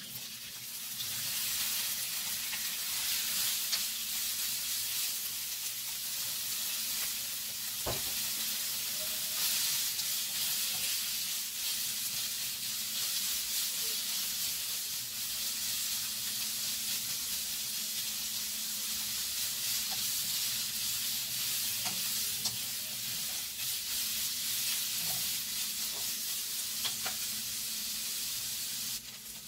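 Diced meat frying in hot oil in a nonstick wok: a steady sizzle that starts as the pieces go in, with occasional light taps and scrapes of a slotted nylon spatula stirring them, one sharper tap about eight seconds in.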